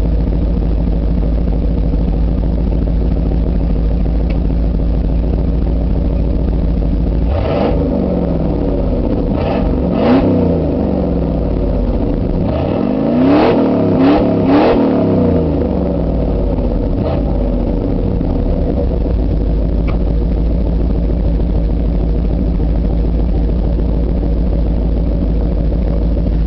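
A 1989 Ford Bronco's fuel-injected 351 Windsor V8, running through near-straight pipes with a baffled tip, idles steadily. From about a third of the way in it is revved several times in quick blips over some eight seconds, then settles back to idle.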